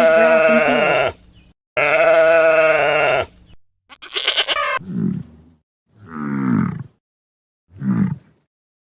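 A string of farm-animal calls. First come two long, wavering bleats, typical of sheep. Then a short pulsed call and three shorter, lower calls that fall in pitch.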